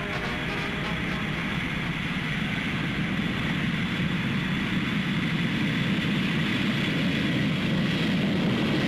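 Jet airliner engines running as a steady rushing noise that grows slowly louder, like an approaching aircraft, from an old film soundtrack.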